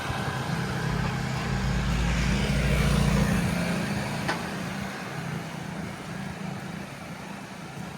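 A motor vehicle passing with a low engine rumble that is loudest about three seconds in, then fades away.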